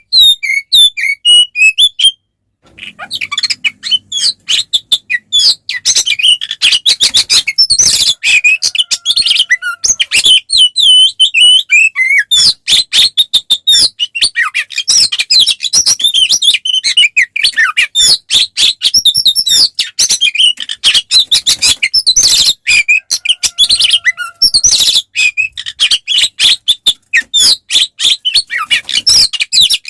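Oriental magpie-robin (kacer) singing loudly in full fighting song: a fast, unbroken run of whistles, chirps and harsh notes, with one short pause about two seconds in. This is the aggressive 'ngeplong tarung' song that keepers play to provoke other kacer.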